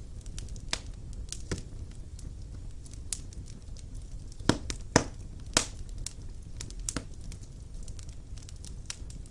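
Wood fire burning in a fireplace: a low steady rumble of the flames with irregular crackles and sharp pops, the loudest a quick run of pops about halfway through.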